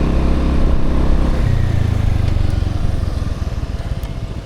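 Motorbike engine labouring up a hill, its note shifting about a second and a half in, then fading as the bike eases off near the end.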